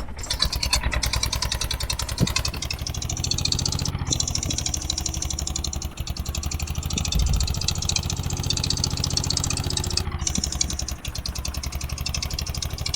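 Eicher 241 tractor's single-cylinder diesel engine running, with a steady rapid beat of firing strokes.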